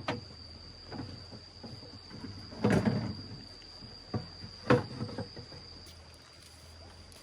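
A few scattered knocks and a short clatter of objects being handled, the loudest about three seconds in, over a steady high-pitched tone.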